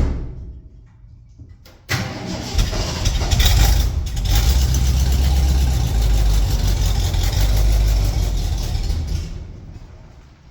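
1974 Ford F-250's 460 V8 being cranked over and firing about two seconds in, then running loudly with revs for several seconds before dying away near the end. The starter has been slipping on engagement.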